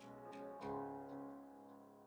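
Soft background piano music: a few gentle notes struck near the start, then ringing out and fading.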